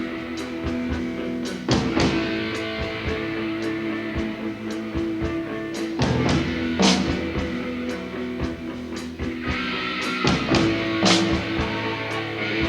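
Live rock band playing an instrumental passage: electric guitars holding ringing notes over bass, with drum-kit hits.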